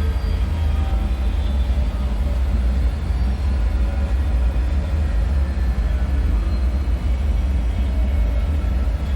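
Dark ambient bunker drone: a steady deep rumble with faint wavering tones above it and no sudden events.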